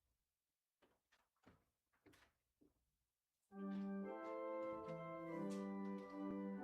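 A few faint soft knocks, then about three and a half seconds in a church organ starts playing sustained hymn chords, the introduction before the congregation sings.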